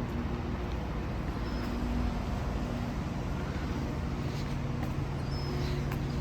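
Steady low hum from an idling diesel train's engine, a constant drone with a few faint ticks over it.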